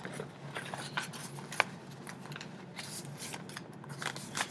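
Greeting cards and envelopes being handled: paper rustling with light taps and clicks, one sharper click about a second and a half in.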